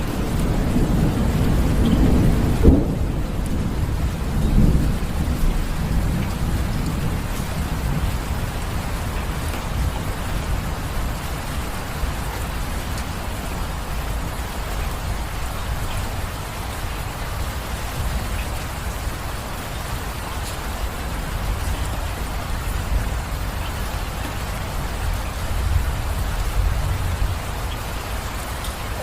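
Steady rain falling, with thunder rumbling over the first few seconds and a sharp clap about three seconds in. The rain then carries on evenly, with another faint low rumble near the end.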